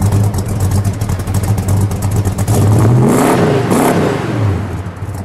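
A 1969 Ford Torino Talladega's 428 Cobra Jet V8 idling through its dual exhaust. It is revved once about halfway through, the pitch rising and then falling back to idle.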